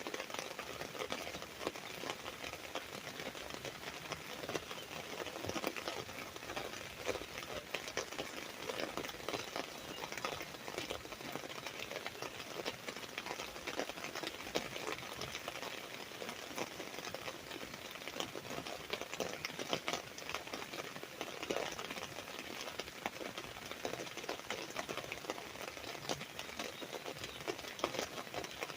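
Rain falling steadily on an umbrella canopy: a dense, even patter of many small drops tapping on the fabric.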